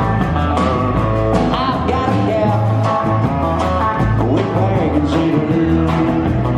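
Live country band playing a truck-driving song: a steady drum beat under bass and guitar.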